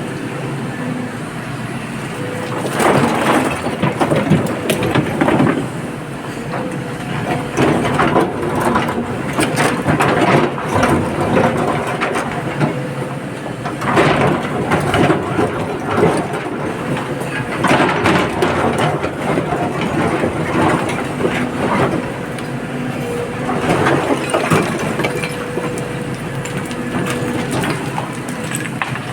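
Excavator's diesel engine running steadily while loads of rock and earth are dumped into a steel tipper body, with bouts of crashing and scraping that come and go every few seconds.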